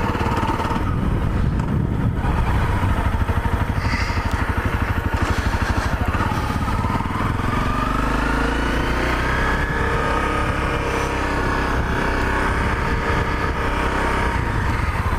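Honda CRF250L's single-cylinder four-stroke engine running as the bike is ridden, its note rising for a few seconds around the middle, then settling.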